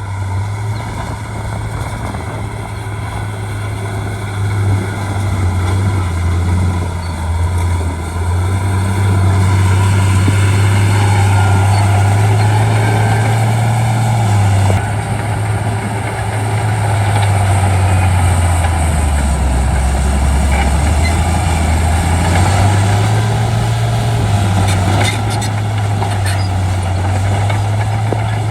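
Shantui D95 bulldozer's diesel engine running hard under load, its pitch falling and rising as the load changes and sagging lowest about two-thirds of the way through before picking back up.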